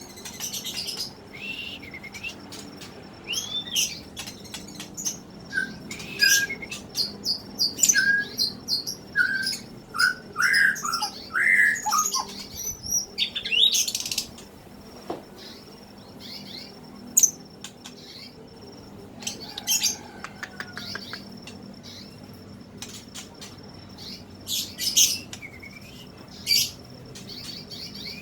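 A songbird singing a varied song of sharp chirps, high whistles and down-slurred notes in bursts, busiest in the first half, with a quieter stretch in the middle before a few more phrases near the end.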